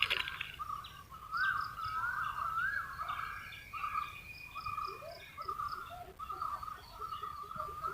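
Several birds calling together: a repeated, wavering call and higher short chirps, with a sharp click right at the start.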